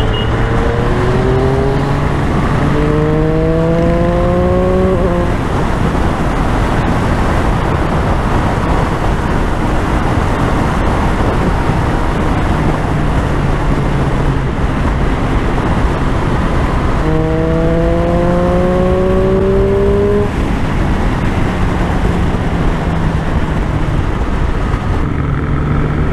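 Motorcycle engine under way with steady wind noise on the helmet mic, pulling up in pitch twice as it accelerates: once from about a second in to about five seconds, and again near the two-thirds mark. Each rise cuts off suddenly, like a gear change.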